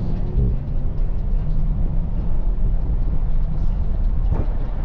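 A car's engine running with a low, steady rumble.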